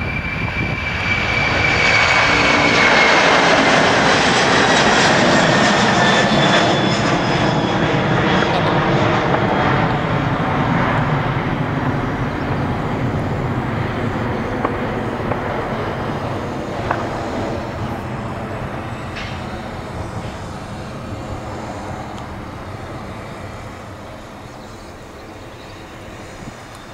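Boeing 767-300 twin-engine jet airliner at take-off power, a loud engine roar with a high whine that falls in pitch as it goes by. It is loudest a few seconds in, then fades steadily as it moves away.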